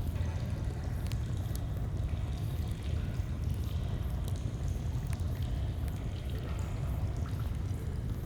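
Flowing stream running steadily, with a few sharp pops and crackles of a wood campfire scattered through it.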